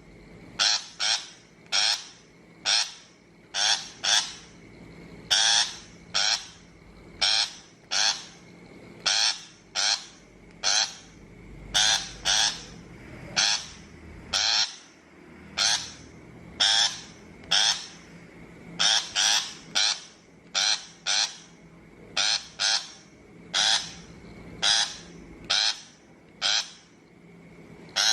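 Shrike giving short, harsh, rasping calls over and over, singly and in quick pairs, about one to two a second.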